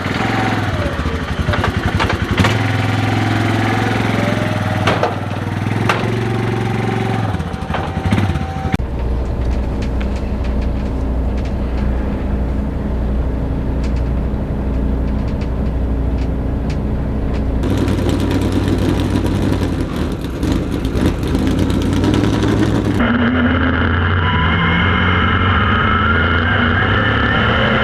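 Dirt-track super late model race car engines running and revving, in several short clips that change abruptly about 9, 18 and 23 seconds in.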